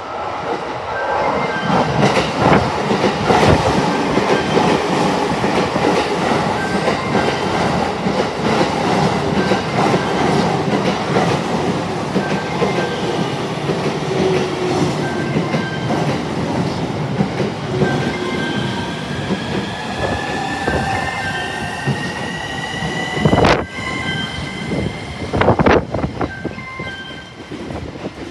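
Electric train running through the station with a steady rumble of wheels and motors. Past the middle, the electric motor whine rises in pitch as it picks up speed, and a few sharp wheel clacks come near the end.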